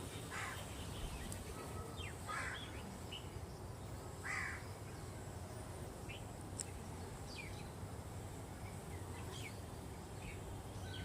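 Birds calling: three short harsh calls spread over the first few seconds and scattered brief chirps, over a steady low background hum.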